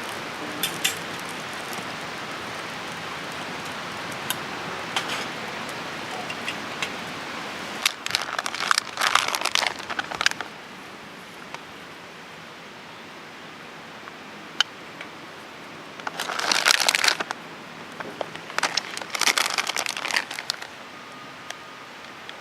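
Food sizzling steadily on a hot pan with scattered crackles, dropping off about ten seconds in. Three bursts of crinkling rustle: near 8 s, near 16 s and near 19 s.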